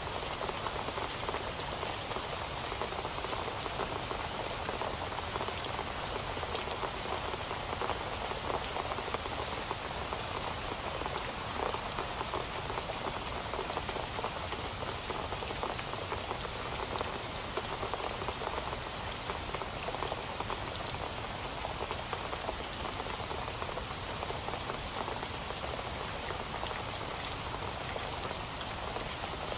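Steady rain, with many small drops pattering on a surface in a dense, even hiss.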